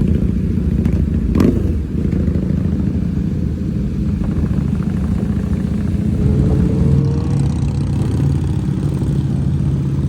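Motorcycle engine running steadily while riding, with a short sharp knock about a second and a half in. The engine note drops to a lower pitch about seven seconds in.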